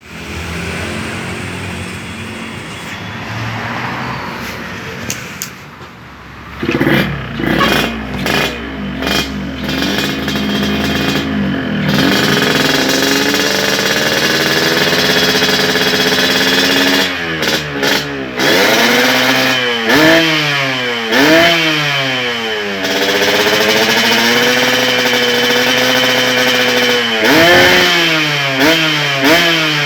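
Yamaha RX-King 135cc two-stroke single running through a full-stainless 'lobster' aftermarket exhaust, blipped repeatedly so the pitch rises and falls between steadier stretches of running.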